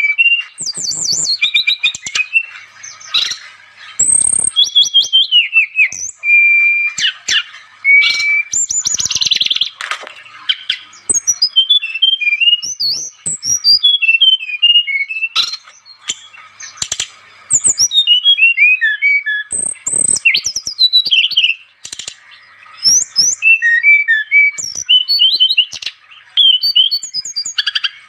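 A songbird singing a long, varied song of rapid chirps, whistles and trills in quick phrases with short breaks, high-pitched and full of quick rising and falling notes. This is the vigorous, non-stop singing that Indonesian bird keepers call gacor.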